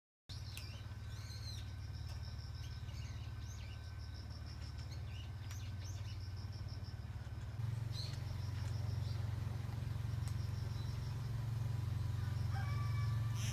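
Outdoor country ambience: a steady low hum, louder from about halfway through, under an insect's pulsing high trill and scattered bird chirps.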